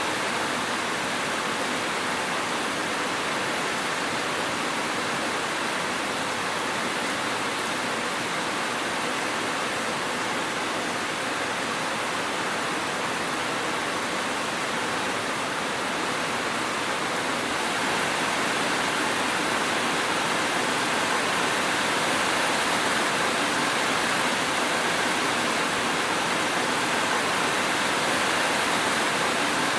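Steady rain falling, an even unbroken hiss with no thunder. It grows a little louder about two-thirds of the way through.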